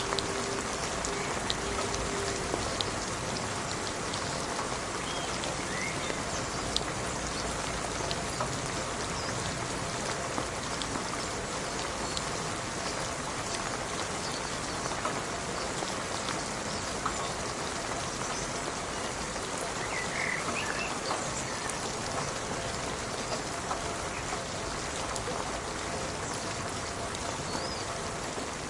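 Steady rain falling: a dense, even hiss with many individual drops ticking on a surface.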